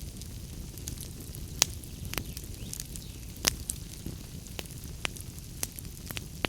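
Wood fire crackling in a fireplace: irregular sharp pops and snaps over a low steady rumble. The loudest pops come about one and a half and three and a half seconds in.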